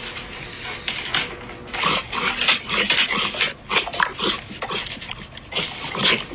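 A dog giving a quick, irregular string of short yips, about two or three a second.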